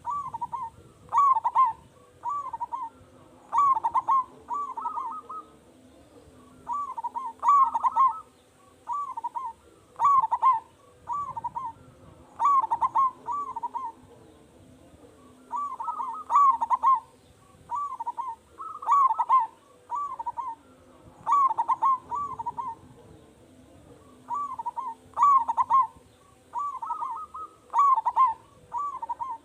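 Zebra dove (perkutut) in full song, repeating its cooing phrase over and over: quick runs of two to five short coos, a run every second or so, some louder than others.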